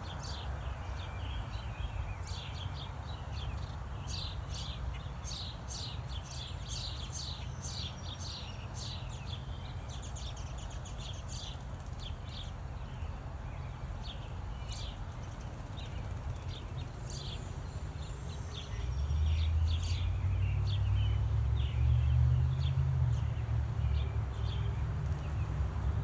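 A flock of small songbirds chirping and twittering in quick short notes, busiest in the first half. Under them runs a steady low rumble that grows louder about three-quarters of the way through.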